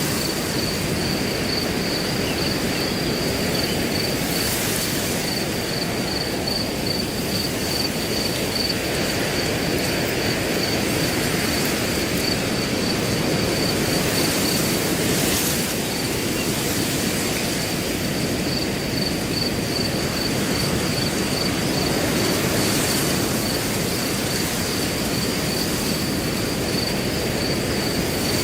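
Wind blowing steadily through grass, with a cricket chirping in a high, even, steadily pulsing trill throughout.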